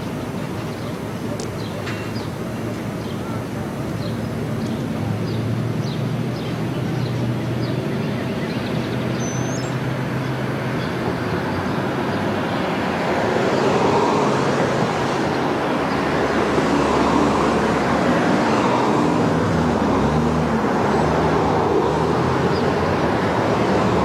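A train approaching, its engine tones and rumbling wheel noise growing louder from about halfway through.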